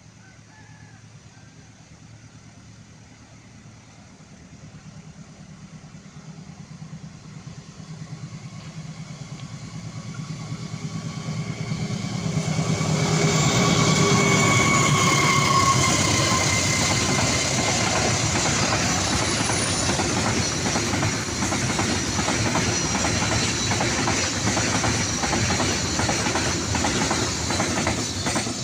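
Train hauled by two diesel locomotives approaching and passing: the low engine drone builds over about ten seconds, with a faint, slightly falling whine as the locomotives go by, then a steady loud clickety-clack of wheels over rail joints as the carriages pass.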